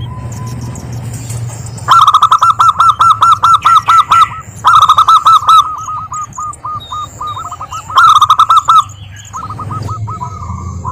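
Zebra doves calling: rapid runs of short staccato notes, with three much louder runs about two, five and eight seconds in, over a low steady hum.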